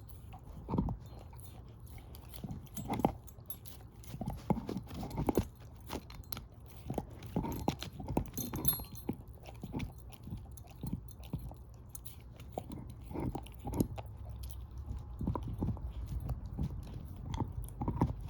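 Shepherd-mix dog chewing and crunching on a bone: irregular bites and cracks, several a second in bursts, with short pauses between.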